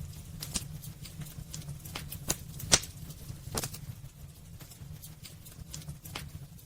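Wood fire burning in a fireplace, crackling: irregular sharp pops over a steady low rumble, the loudest pop just under three seconds in.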